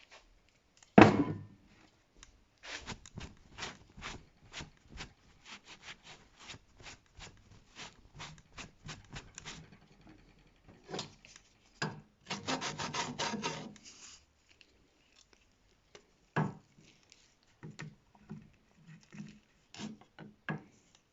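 Hand file rasping in quick even strokes, about three or four a second, across a car brake pad's friction material as its edges are chamfered and its centre slot widened. A sharp knock comes about a second in, a denser, louder run of strokes a few seconds past the middle, and lighter strokes near the end.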